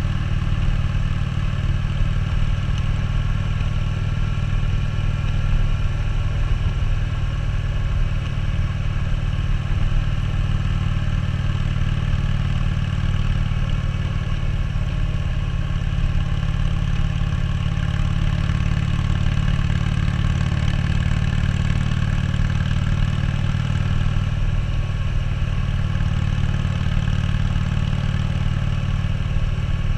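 2014 Harley-Davidson Street Glide Special's V-twin engine running at a steady cruise while being ridden, with wind and road rush over it.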